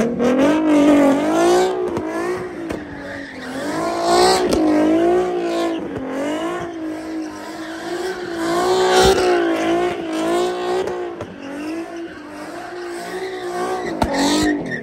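Nissan 370Z's V6 engine held at high revs through donuts, its pitch rising and falling in waves with the throttle, over the screech of spinning rear tires. A couple of sharp cracks stand out, about nine and fourteen seconds in.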